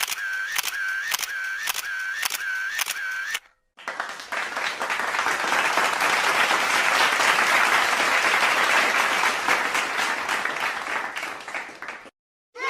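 A fast, evenly repeating mechanical clicking with a thin steady tone, about two clicks a second, stops about three and a half seconds in. After a brief pause a crowd applauds, the clapping swelling and then fading away near the end.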